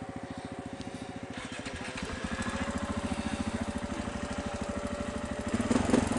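Motorcycle engine running with an even firing beat, growing louder about two seconds in as the throttle opens, with a brief louder burst near the end.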